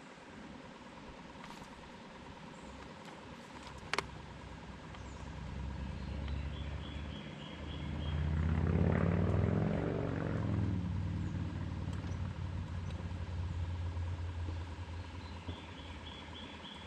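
An engine running, likely a boat motor on the lake. It swells to its loudest about halfway through, then settles to a steady lower hum. Birds chirp in short repeated notes at the start and near the end, and a single sharp click comes about four seconds in.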